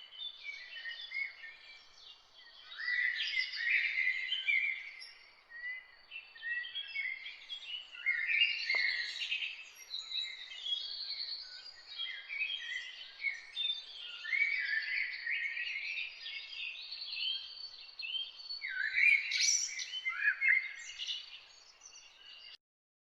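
A chorus of songbirds singing and chirping, many overlapping warbled phrases with quick rises and falls in pitch, over a faint outdoor hiss. It cuts off suddenly near the end.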